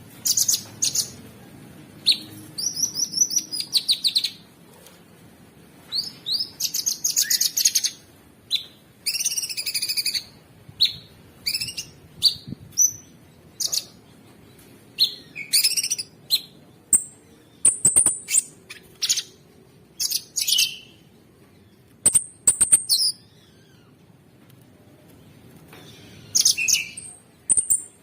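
Cucak sungkok songbird singing in short bursts of rapid, rattling trills and sharp high chirps, with brief pauses between phrases.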